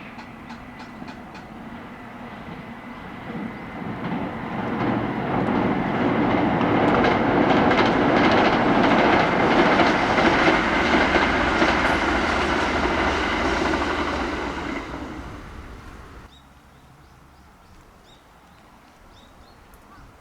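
Kintetsu electric train passing by: the noise builds over several seconds, wheels clicking over rail joints at the loudest, then falls away abruptly about three-quarters of the way through.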